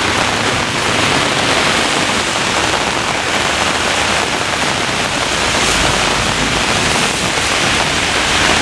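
Heavy thunderstorm rain pouring down in a steady, loud hiss, with wind gusting in.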